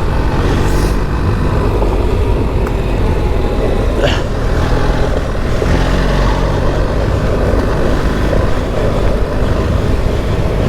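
BMW R 1300 GS Adventure's boxer-twin engine running steadily as the bike rides along a dirt trail, heavy wind and riding noise over the rider's microphone.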